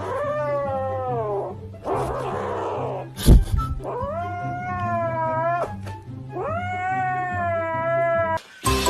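A cat yowling in three long, drawn-out calls, the first falling in pitch, with a sharp thump about three seconds in. Background music plays underneath.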